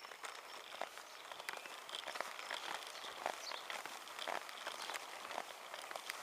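Giant Revive semi-recumbent bicycle rolling along a country road: irregular clicks and rattles over a steady hiss.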